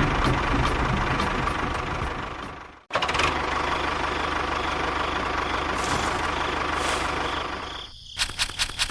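Tractor engine running steadily. It cuts out abruptly about three seconds in and starts again at once; near the end comes a quick run of sharp clicks.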